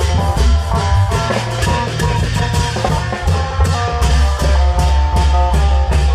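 Isan long-drum (klong yao) band playing: a steady, driving drum beat with cymbal strokes, a heavy bass, and an amplified melody line on top.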